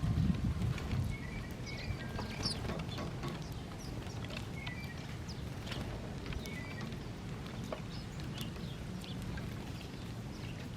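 Small songbirds chirping, with many short high calls and brief trills scattered throughout, over a steady low rumble.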